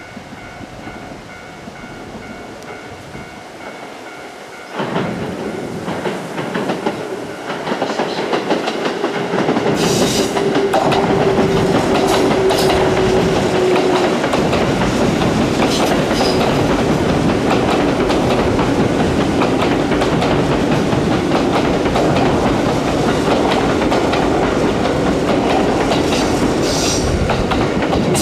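Electric train passing close by: it comes in suddenly about five seconds in, grows louder, then runs on steadily with wheels clicking over rail joints. A steady tone sounds for a few seconds in the middle.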